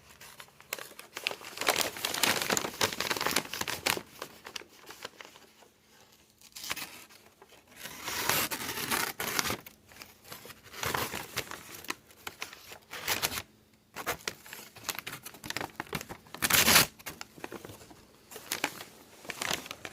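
Packing paper being cut with a Budk Mountain Man knife, tearing and crinkling in several separate passes of a few seconds each. The blade tears and rips the paper rather than slicing it cleanly: its edge is still a little dull.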